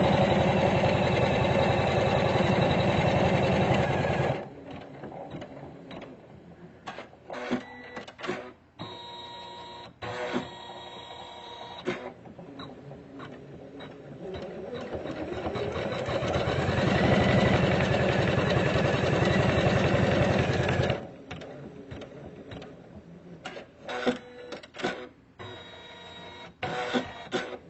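Usha Janome Memory Craft computerized embroidery machine stitching fast, then dropping to quiet clicks and short whirs about four seconds in. Around thirteen seconds it speeds back up, the pitch rising, into a second run of full-speed stitching. This run stops about twenty-one seconds in, followed by more quiet clicking.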